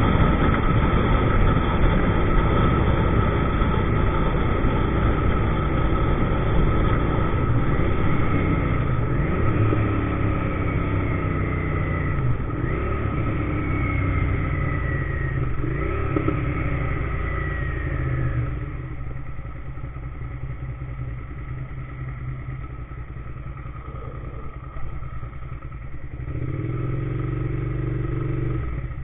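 2000 Suzuki SV650's V-twin engine running under way, with a steady rush of road and wind noise. Between about 8 and 18 seconds in, the engine note falls again and again in steps as the bike slows. After that it is quieter, with a steadier low-speed engine note near the end.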